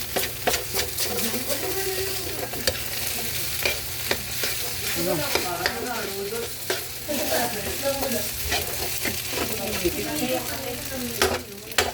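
Garlic fried rice with chicken sizzling in a hot pan while being stirred and tossed, the spatula scraping and clacking against the pan again and again.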